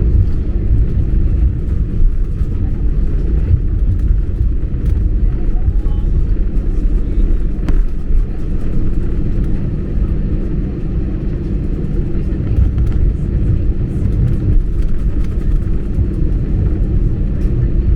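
Steady low rumble inside the cabin of a Frontier Airbus A320-family jet airliner rolling on the ground just after landing, with engine noise and runway or taxiway noise blended together.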